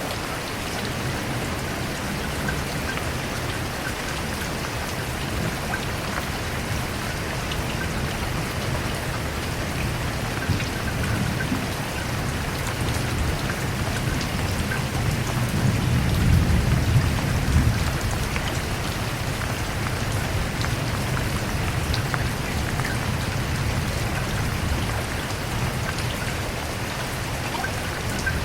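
Steady rain falling, with a low rumble of thunder that swells and fades about halfway through.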